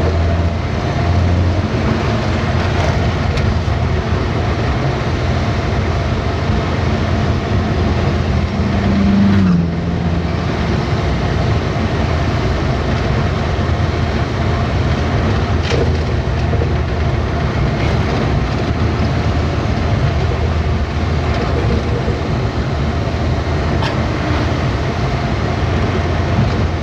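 Truck driving along: steady engine and road rumble, with the engine note rising briefly about nine seconds in and then dropping away for a moment.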